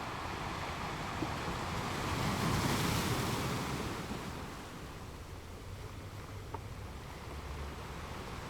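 Ocean waves on a beach: one wave swells to its loudest about three seconds in, then washes out and settles into a steady hiss of surf.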